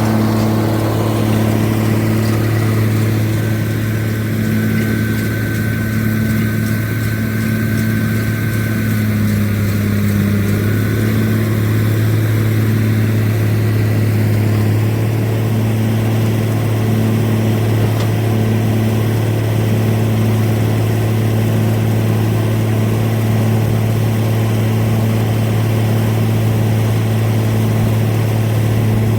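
White 2-135 tractor's Caterpillar 3208 V8 diesel running at a steady speed while pulling a round baler, with a light pulse in its note about once a second.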